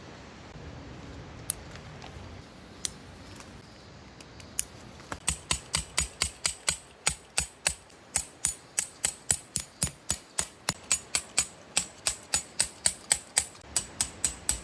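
Tent pegs being driven in with a hammer: a steady run of sharp strikes, about three a second, starting about five seconds in, after a couple of single knocks.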